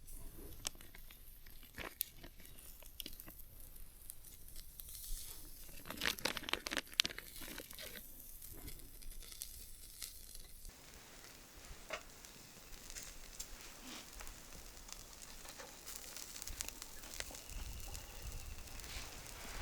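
Crinkling and rustling handling noise with scattered sharp clicks, busiest about six seconds in.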